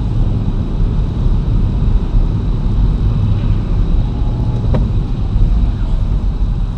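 Car driving, a steady low rumble of engine and road noise, with one faint click about two-thirds of the way through.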